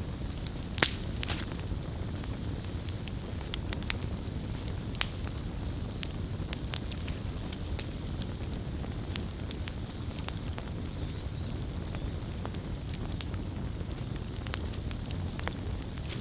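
Wood campfire crackling, with scattered sharp pops over a steady low rumble; the loudest pop comes about a second in.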